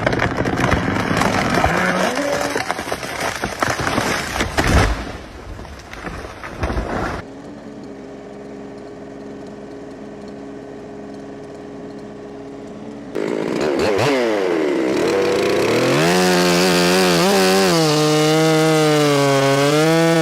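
Crackling and crashing for the first few seconds as a felled pine comes down. Then a two-stroke chainsaw idles steadily, and about 13 seconds in it revs up to full throttle, its pitch wavering as it cuts under load.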